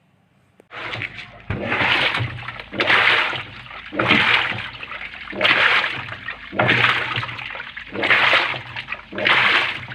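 Panasonic washing machine agitating a wash with its newly fitted drive belt: water sloshing in the tub in regular swishes about every second and a bit, over a steady motor hum. It starts about a second in. The sound shows the new belt is driving the tub again.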